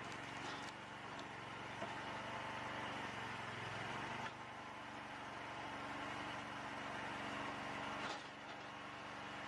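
An engine running steadily, its hum shifting abruptly about four seconds in and again about eight seconds in.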